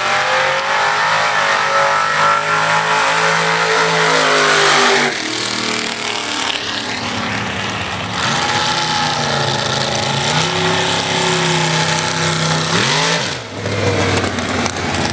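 Drag-racing cars accelerating hard at full throttle, engine pitch climbing, with a break about five seconds in and again near the end as gears change.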